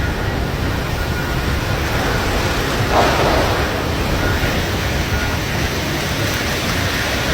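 Storm-force wind blowing hard and buffeting the microphone, a steady rushing noise with a low rumble and a stronger gust about three seconds in.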